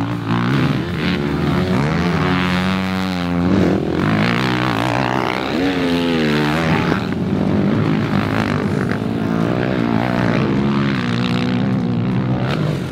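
Racing ATV engines revving hard, their pitch rising and falling again and again through throttle and gear changes.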